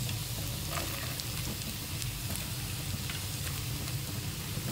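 Chopped vegetables sizzling in butter in a hot pan, a steady frying hiss with a few light taps as shredded cabbage is dropped in.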